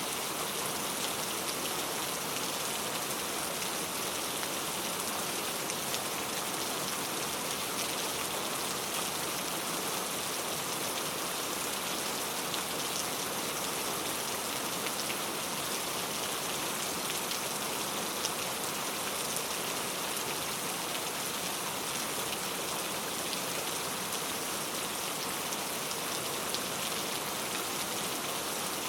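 Very heavy rain falling steadily, a dense even hiss of drops with fine ticks of individual drops striking a surface.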